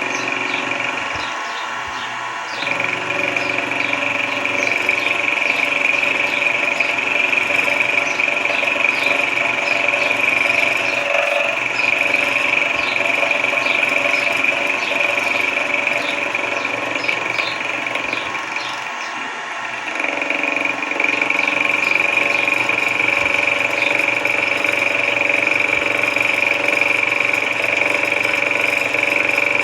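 Sodré SX2 benchtop mill-drill running, a steady motor whine with a strong high tone and light regular ticking over it. The sound eases off briefly about two seconds in and again around nineteen seconds, then comes back up to full level.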